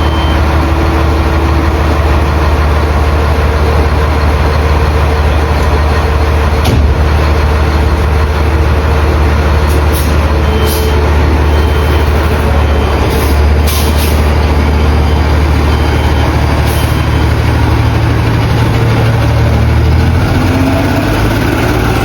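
Fire engine's diesel engine running steadily, with a few short hisses around the middle and the engine note rising near the end.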